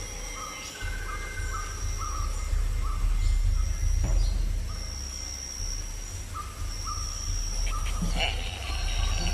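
Outdoor ambience: a bird calling in a series of short repeated notes, about two a second, that pause midway and resume, over a low steady rumble.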